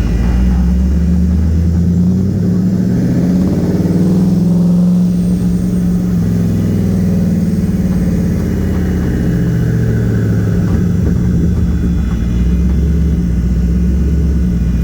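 Twin-turbo Nissan VK56 5.6-litre V8 running steadily at low revs, heard inside the car's cabin, with its pitch shifting slightly now and then.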